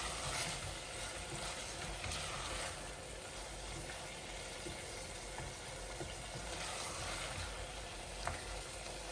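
Beef shutki bhuna sizzling gently in a stainless steel pot on a low gas flame while a wooden spatula stirs it, with a steady hiss and a few light clicks of the spatula against the pot.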